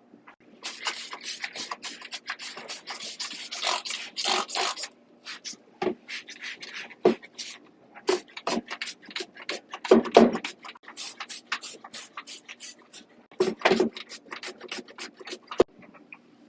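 A rhythmic beatboxed percussion track: quick, sharp mouth clicks and hissing snare-like hits several times a second, starting just under a second in and ending abruptly near the end, over a faint steady hum.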